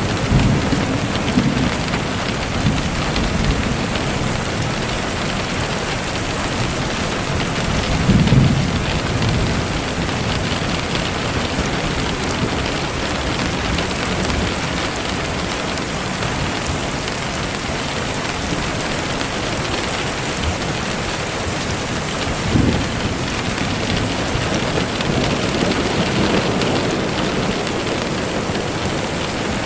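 Steady rain falling, with a couple of brief low rumbles: one about eight seconds in and a shorter one a little after twenty seconds.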